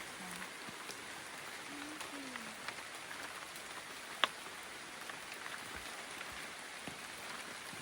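Steady, even hiss of rainforest ambience, with one sharp click about four seconds in.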